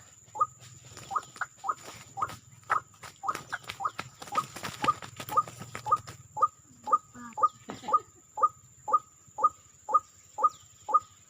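White-breasted waterhen (ruak-ruak) calling: a long series of short, clipped notes at about two a second, uneven at first and then very evenly paced. A faint steady high whine runs underneath, with scattered clicks in the first half.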